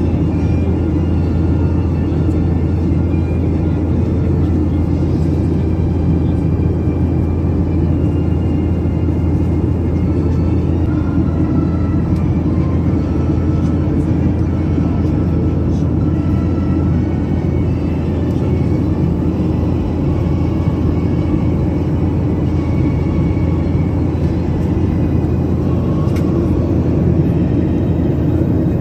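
Steady drone of a Boeing 737-800's CFM56 jet engines and airflow heard inside the passenger cabin, a deep even rumble that holds level throughout.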